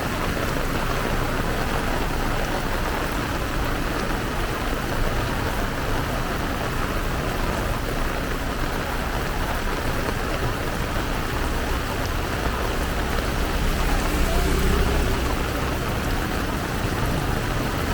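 Heavy downpour: a steady, dense hiss of rain pouring down. A low rumble swells briefly about three-quarters of the way in.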